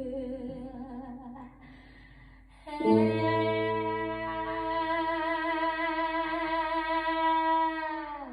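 Wordless singing. One wavering note fades out in the first second or so, then about three seconds in a new long note starts with vibrato, is held for about five seconds and sags in pitch as it ends.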